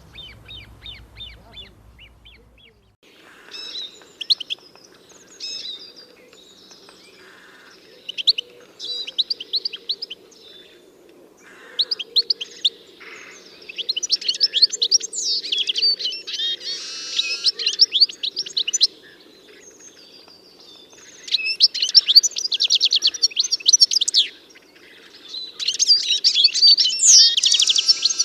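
A bird singing loud, rapid phrases of high chirping and trilling notes in repeated bursts, with short pauses between them. For the first two seconds or so there is a fainter, evenly spaced series of short high notes instead.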